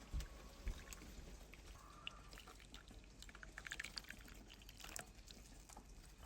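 Faint handling sounds: two soft thumps near the start, a quick run of light clicks around the middle, and a single sharper tick near the end.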